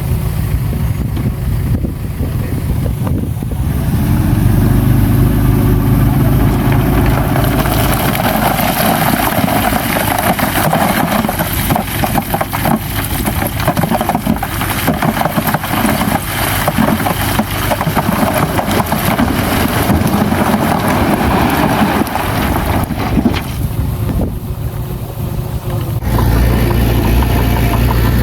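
Heavy diesel earthmoving machinery running steadily, with a loud stretch of working noise and clatter for most of the middle. It eases off briefly near the end, then settles back to a steady engine hum.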